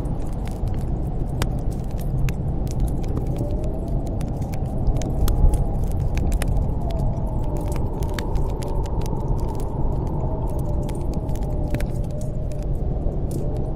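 Snowstorm wind blowing steadily with a faint whistle that wavers in pitch, over the irregular crackling and popping of a wood fire in a fireplace.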